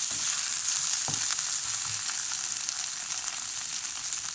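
Sliced onions and ginger-garlic paste sizzling steadily in hot oil while being sautéed. A wooden spatula stirs them and knocks lightly against the pan twice in the first second or so.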